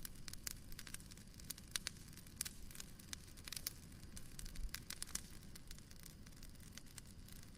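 Fireplace crackling: a soft low rumble of burning wood with irregular sharp pops and snaps.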